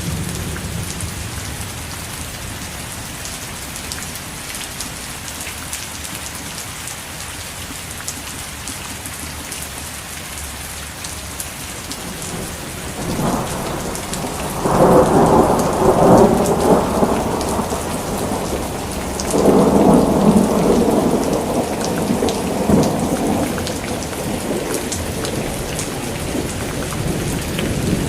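Steady rain pattering, with a roll of thunder swelling up about halfway through and rumbling for several seconds, followed by a second roll.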